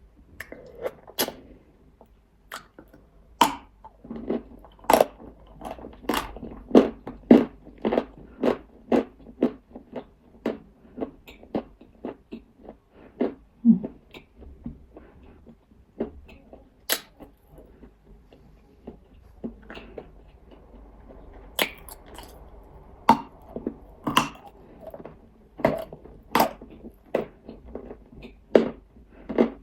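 A person biting and chewing nzu, a dry edible white clay chalk. It makes a run of sharp, irregular crunches, about one or two a second.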